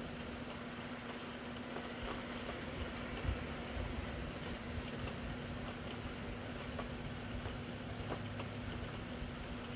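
Steady hiss of falling rain with scattered faint drip ticks, and a steady low hum underneath.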